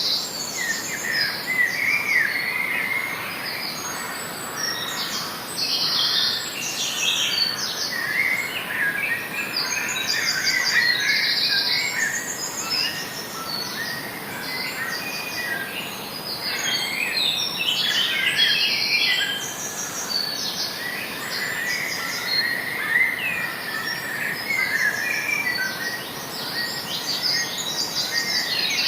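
A chorus of songbirds singing and calling in a forest, many short overlapping chirps and whistles, with rapid high trills lasting about a second each recurring throughout.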